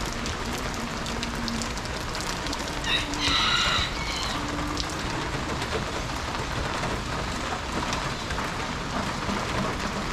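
Steady rain falling, an even hiss. About three seconds in, a brief high-pitched tone lasting about a second is the loudest sound.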